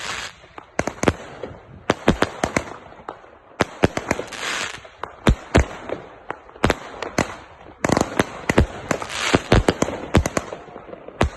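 Self-assembled firework battery of linked cakes firing: a rapid, irregular run of sharp bangs, some in quick clusters, with bursts of crackling about four and nine seconds in.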